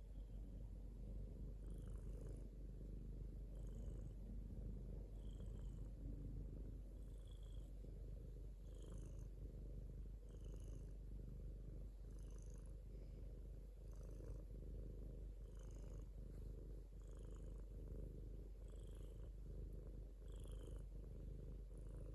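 Domestic cat purring steadily and softly, with a faint breathy lift about every second and a half as it breathes in and out.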